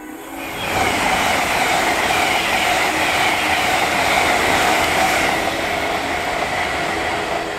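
LNER Azuma high-speed train passing at speed: a loud rush of wheels on rail and air that builds up in the first second, holds, then eases off slightly near the end.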